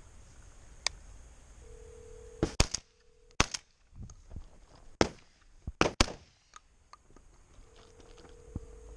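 Shotgun shots at incoming doves, several over a few seconds, some fired in quick pairs.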